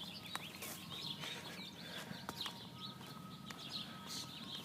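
Small birds chirping in the background, many short calls overlapping, with a faint steady tone joining about halfway through.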